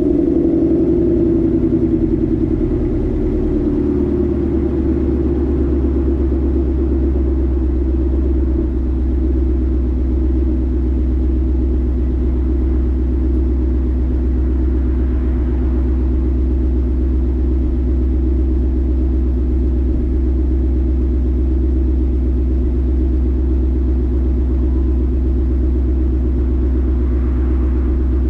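Car engine with a 'ghost cam' idle tune, running after a cold start. The raised idle eases down over the first few seconds, then settles into a steady idle with a rhythmic lope.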